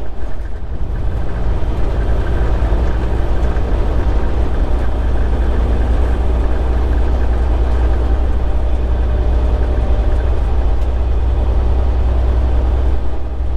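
Semi-truck engine and road noise heard inside the cab while driving along at a steady speed: a loud, steady low drone with road rumble.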